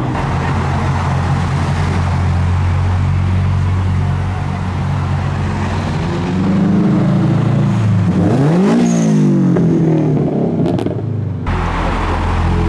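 Modified car engine running with a steady low drone, then revving once about eight seconds in, the pitch rising and falling back.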